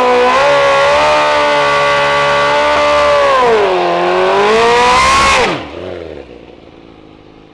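A drag-racing car's engine held at high revs, wavering and dipping briefly, then the revs fall away sharply near the end and the sound drops off quickly.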